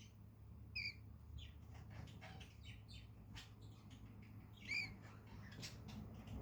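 Pet cockatiel giving two short chirps about four seconds apart, with faint clicks in between.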